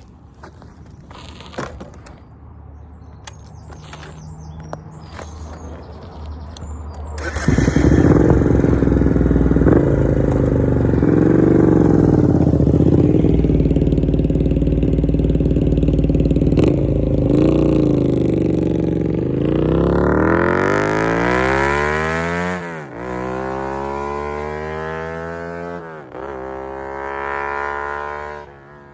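Honda Varadero 125's V-twin through a Black Widow aftermarket exhaust: quiet and rising at first, then suddenly loud about seven seconds in. Near the end it accelerates hard, the pitch climbing and dropping sharply twice as it changes up through the gears, then fading.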